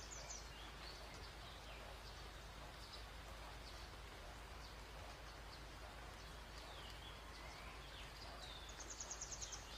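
Birds chirping faintly over a steady hiss, with scattered short calls and a quick trill near the end.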